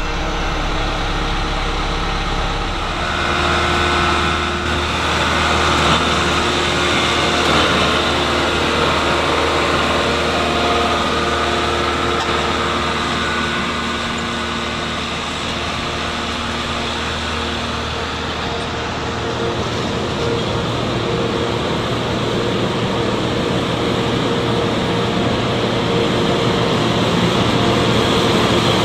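Diesel engines of rail vehicles running steadily. Their low hum steps down in pitch about 3 seconds in and changes again about 19 seconds in.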